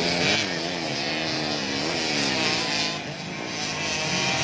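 Yamaha YZ85 two-stroke motocross bikes racing, engines revving up and down as the riders work the throttle and shift.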